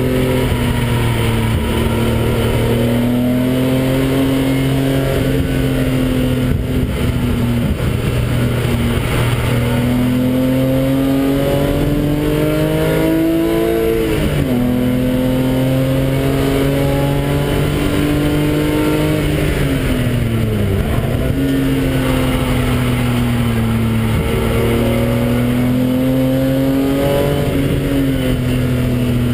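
BMW engine heard from inside the cabin at track speed, running hard, its pitch rising and falling with the revs over tyre and wind noise. The note climbs steadily for a few seconds and falls sharply about halfway through, then dips briefly and recovers about two-thirds of the way in.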